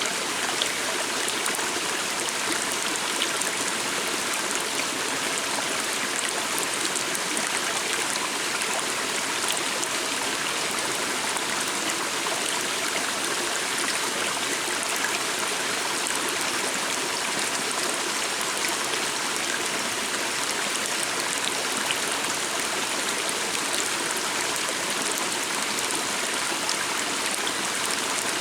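A stream flowing steadily, an even, unbroken rush of running water.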